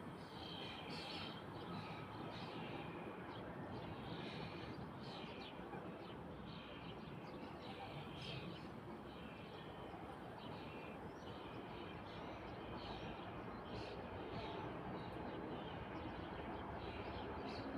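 Small birds chirping in short repeated calls over a steady low background noise.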